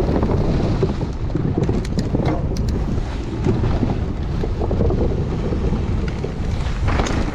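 Strong wind buffeting the microphone over the steady low rumble of a mountain bike rolling down a rocky trail, with a few sharp clicks about two seconds in.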